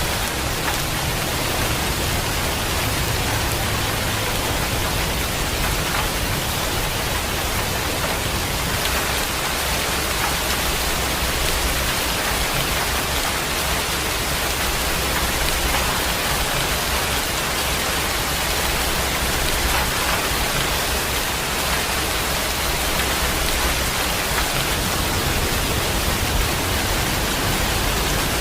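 Steady heavy rain, an even hiss of many drops with no let-up, and a low rumble underneath.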